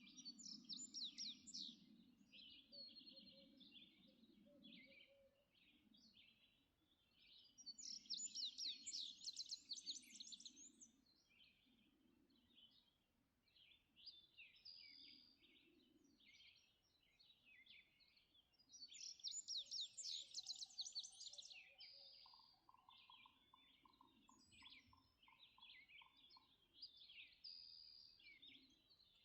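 Faint dawn birdsong from several birds: a song of rapid high notes lasting a few seconds comes three times, near the start, about 8 s in and about 19 s in, with scattered short chirps and calls between. A faint low rumble lies underneath in the first few seconds.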